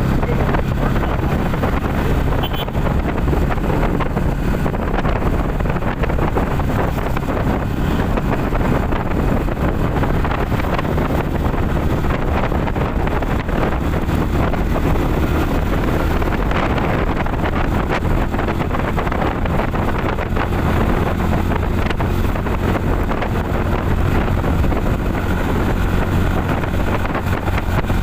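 Motorcycle engine running steadily while riding, under heavy wind noise on the microphone.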